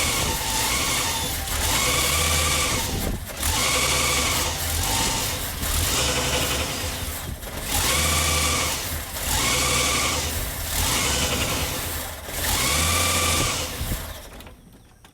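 Ford 300 inline six engine running unevenly, its speed rising and falling again and again in about a second each time, then dying away about 14 seconds in. It will not hold an idle after its rebuild.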